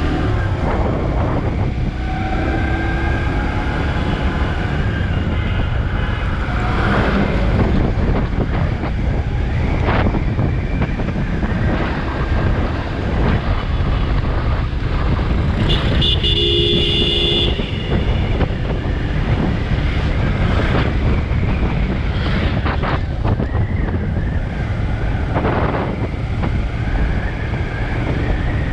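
Steady highway traffic noise, a bus's engine and tyres running with wind on the microphone; about halfway through, a vehicle horn sounds for about a second and a half.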